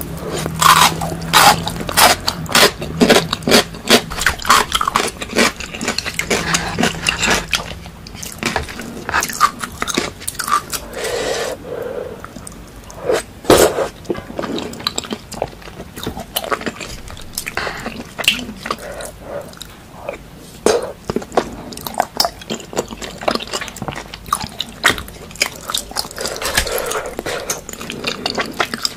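People chewing and smacking on food close to the microphone, with many short wet smacks and crunches, busiest in the first several seconds.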